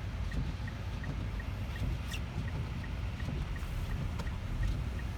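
Low, steady rumble of a car with its engine running, heard from inside the cabin, with a faint light ticking about three times a second.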